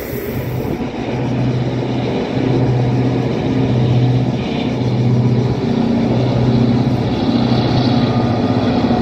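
Diesel train engine running with a deep, pulsing throb that grows louder over the first couple of seconds, then holds steady.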